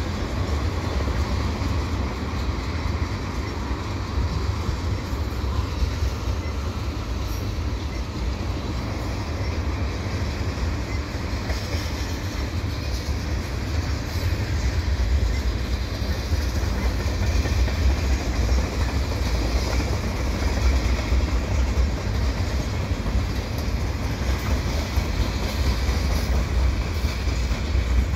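Freight cars of a CN mixed freight train, tank cars and hoppers, rolling past on the tracks: a steady noise of steel wheels on rail that grows slightly louder about halfway through.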